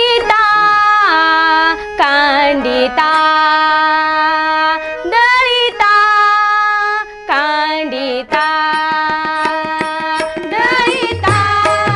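Opening of a Marathi devotional abhang: a melody of long held notes with slides between them. A low beat comes in near the end.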